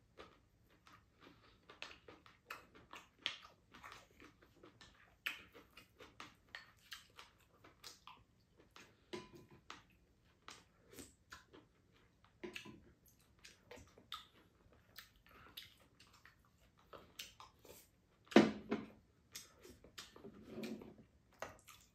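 Close-up eating sounds: chewing and biting on mouthfuls of stir-fried chicken and bean sprouts, with many small wet smacks and clicks of a spoon and chopsticks against a bowl. One louder mouth sound comes about eighteen seconds in.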